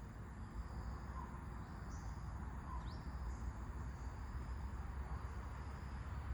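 Wind with a steady, high-pitched insect drone, and a few short bird chirps about two to three seconds in.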